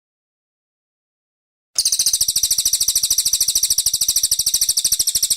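Brown cililin bird song: after nearly two seconds of silence, a fast, even, high-pitched trill of about a dozen notes a second that keeps going to the end.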